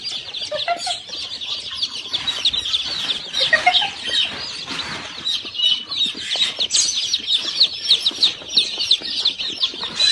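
Many birds calling at once: a dense, continuous chatter of short, high chirps and peeps.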